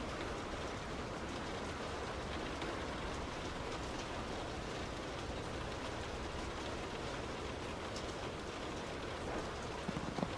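Heavy rain striking a moving car over steady tyre and road noise, with scattered ticks of single drops and a few sharper knocks near the end.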